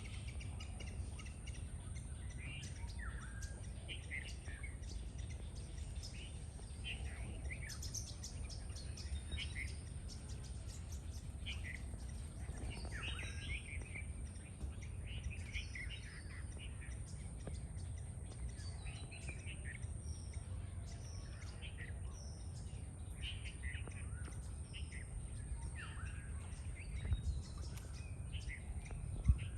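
Several wild birds chirping with short, repeated calls in a wetland, over a steady high-pitched drone and a constant low rumble.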